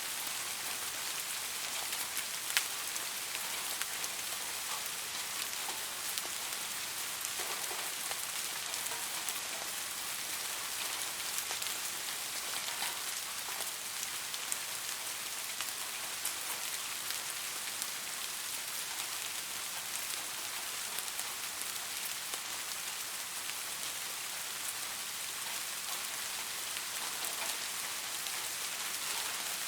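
Steady rain falling, an even hiss with scattered sharper drop clicks.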